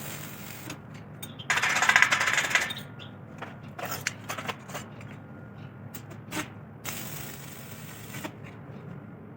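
Small metal bicycle parts clinking and knocking during hand repair work, with two longer stretches of scraping or rubbing noise. The first stretch, about a second and a half in, is the loudest.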